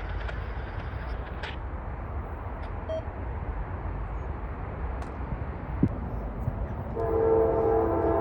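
Low wind rumble on the microphone, then about seven seconds in a CSX freight locomotive's air horn starts sounding: a steady chord of several tones held to the end.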